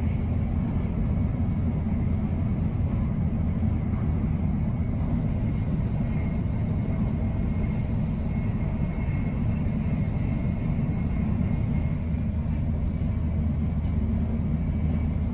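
Steady low rumble of a Tokaido Shinkansen bullet train running at speed, heard from inside the passenger car.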